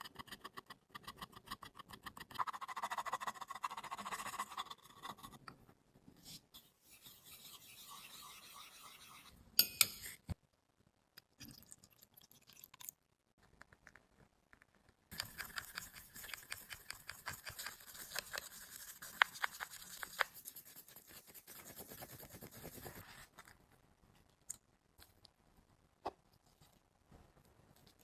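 Quick, repeated scraping and rubbing strokes of a tool working the powder in a makeup compact, in runs of several seconds with pauses between them. There are a few sharp clicks and knocks, the loudest about ten seconds in.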